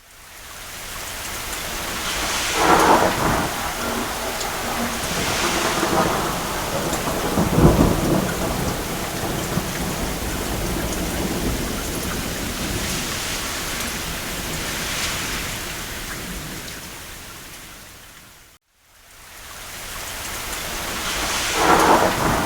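Steady rain on a roof, swelling and easing, with a deep rumble of distant thunder about eight seconds in. Near the end the sound dips to a brief silence and fades back in.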